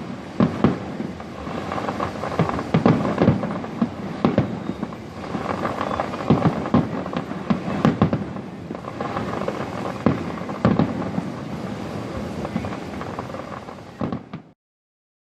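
Fireworks display: a continuous crackle with many irregular sharp bangs of aerial shells bursting. The sound cuts off abruptly about a second before the end.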